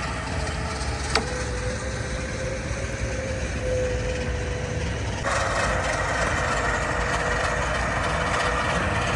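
Several off-road vehicle engines running during a winch recovery, under a steady thin whine, with one sharp click about a second in. About five seconds in, a louder, harsher mid-pitched noise sets in and holds.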